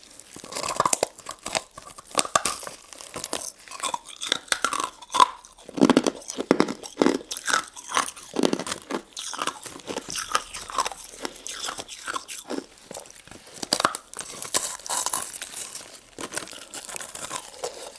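Close-up eating sounds of a golden crystal ice dessert: crisp crunching bites and chewing, many quick cracks one after another with short pauses between mouthfuls.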